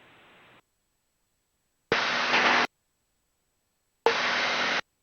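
Two short bursts of hiss from an air traffic control radio receiver, each under a second long and about two seconds apart, with no voice in them: the squelch opening on brief unmodulated transmissions.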